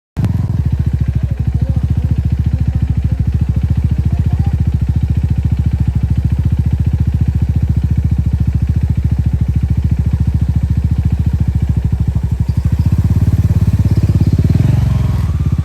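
Motorcycle engine running at a steady pace with an even pulse, cutting in abruptly at the start and growing louder near the end.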